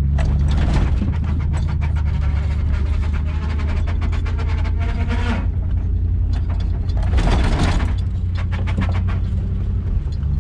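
Pickup truck engine running steadily under load while towing another truck, with two longer stretches of rushing noise over it, the first lasting about five seconds and the second starting about seven seconds in.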